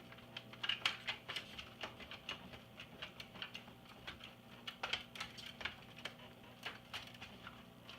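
Irregular light clicks and taps from hands and a screwdriver working on the iMac G3's plastic casing and screws, over a faint steady low hum.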